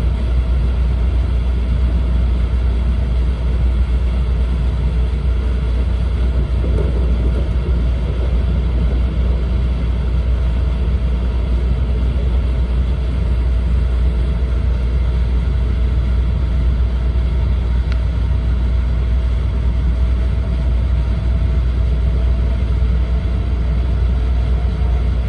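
E4 series 'Max' bilevel Shinkansen running steadily, heard inside the Green car cabin as a constant low rumble.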